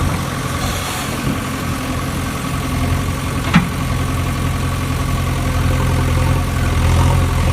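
An engine idling steadily, with one sharp click about three and a half seconds in.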